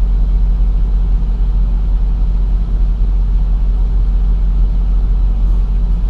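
Semi truck's diesel engine running, a steady low rumble.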